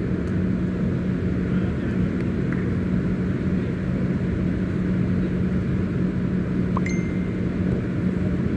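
Steady low rumble of outdoor background noise with a constant low hum, and a short high beep about seven seconds in.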